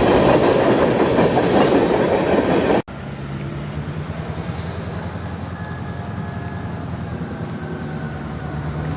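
Freight train cars rolling past on the rails, wheels clicking over the rail joints, until an abrupt cut about three seconds in. After that there is a much quieter, steady low hum.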